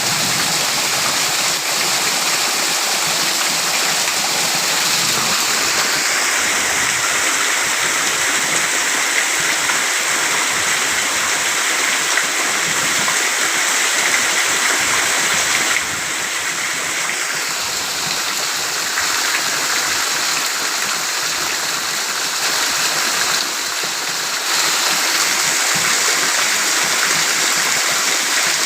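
Heavy downpour of rain, a loud, steady, dense hiss of rainfall.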